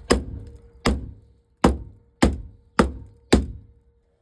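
Six hard blows of a rubber mallet on a truck cab's metal door frame, about one a second, beating at a section that is bent and pushed in.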